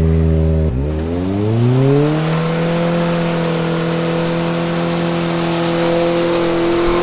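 Car engine revving hard: its pitch dips just under a second in, climbs over the next second and a half, then holds high and steady. The engine is overheating.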